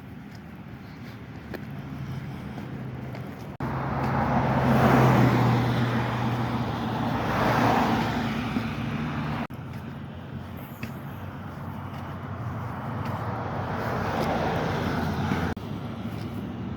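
Road traffic: motor vehicles passing with engine hum and tyre noise swelling and fading. The sound changes abruptly three times where clips are cut together.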